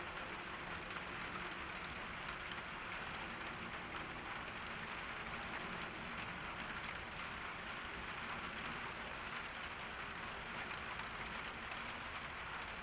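Steady summer rain falling on garden surfaces, an even, unbroken hiss.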